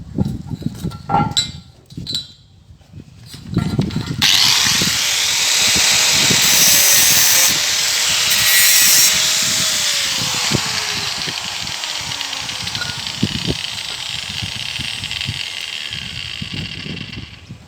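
A few knocks of metal parts being handled, then a power tool runs steadily on metal from about four seconds in until near the end, with a bright, hissing edge. Its pitch sags partway through as it comes under load.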